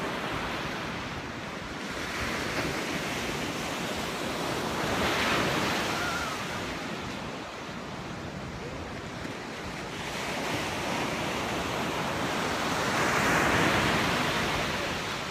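Pacific Ocean surf breaking on the shore, a steady wash of noise that swells with each wave, loudest about five seconds in and again near the end, with some wind buffeting the microphone.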